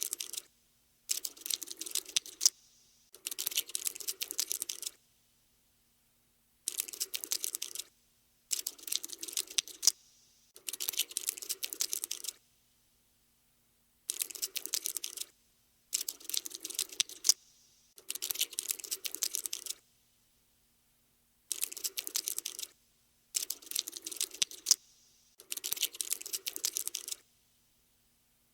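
Cockroach scuttling sound effect: rapid dry skittering clicks, like insect legs scurrying over a hard surface. The clicks come in bursts of about one to two seconds, three bursts close together, then a pause of about two seconds before the next three.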